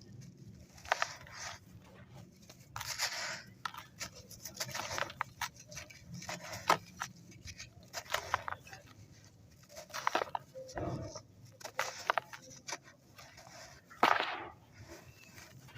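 Dry, crispy purple-dyed sand crumbling: irregular crunching and crackling in short bursts, the loudest about fourteen seconds in.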